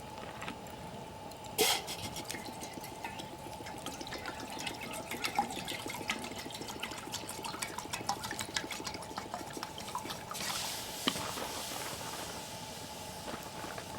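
Wood campfire crackling, with many sharp pops, a loud one near the start. About ten seconds in, a hiss rises for a couple of seconds over the crackle.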